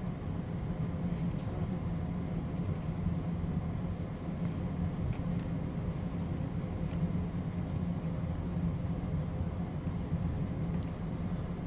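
Thunderstorm noise: steady rain with a constant low rumble underneath and a few faint ticks, even in level throughout.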